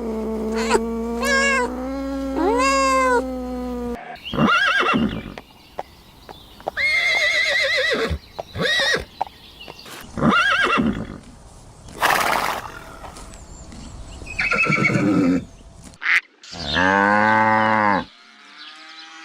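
Several farm-animal calls in a row, broken by abrupt cuts, among them wavering horse whinnies and a short breathy burst near the middle.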